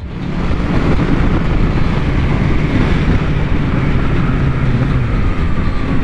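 Motorcycle riding at speed, its engine running steadily under heavy wind noise on the microphone, the engine note easing slowly downward in the second half.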